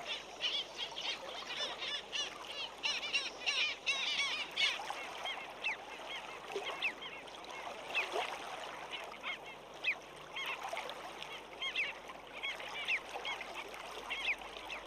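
A flock of black skimmers calling: many short calls overlapping, thickest in the first few seconds, then sparser.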